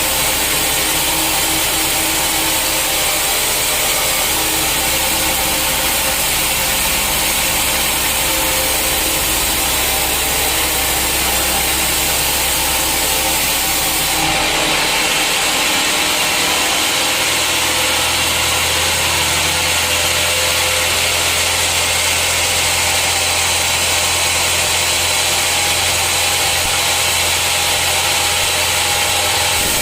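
Sawmill saw running steadily and cutting through a teak stump. Its tone shifts about halfway through.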